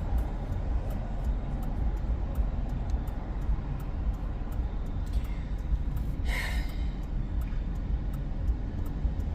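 Steady low road and engine rumble inside a moving car's cabin. About six seconds in there is one short breathy sound.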